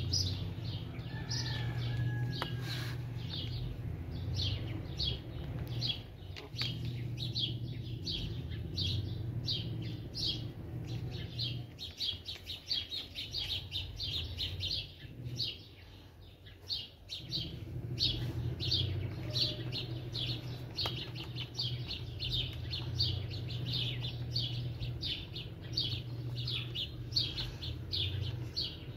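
A small bird chirping over and over, several short high chirps a second, over a steady low hum that drops away for a second or two just past the middle.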